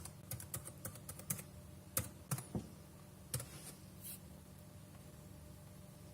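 Typing on the Irbis NB60 netbook's keyboard: a quick, uneven run of light key clicks that stops about four seconds in.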